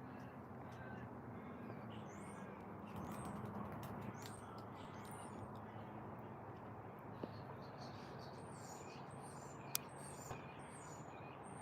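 Birds chirping and twittering with short, high-pitched calls, scattered throughout, over a faint steady low hum. One sharp click comes near the end.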